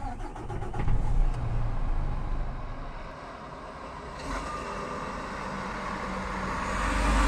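A truck engine starting: a brief rapid crank, then a loud low rumble that peaks and settles, before swelling again near the end with a growing rush of noise.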